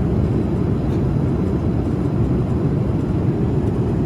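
Steady low rumble of a jet airliner cabin in flight: engine and rushing-air noise, unchanging throughout.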